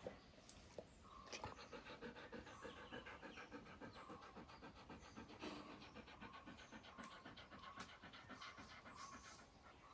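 A dog panting faintly in a quick, steady rhythm of short breaths, starting about a second in.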